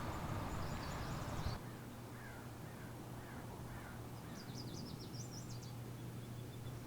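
Outdoor ambience with birds calling: faint repeated calls, then a quick run of high chirps about halfway through, over a low steady hum. The background noise drops abruptly about a second and a half in.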